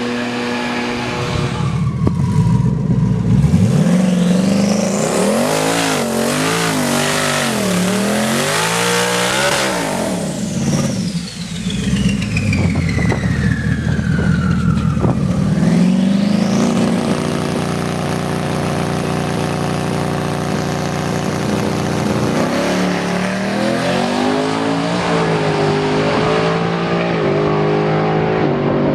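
Drag car engine revving hard up and down several times, then running at a steady pitch, then revving up again near the end.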